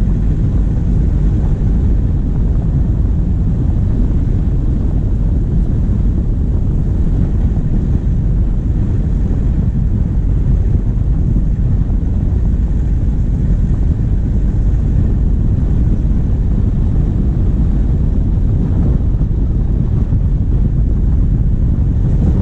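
Steady low rumble of a moving vehicle heard from a bonnet-mounted microphone: its diesel engine running under wind buffeting the microphone.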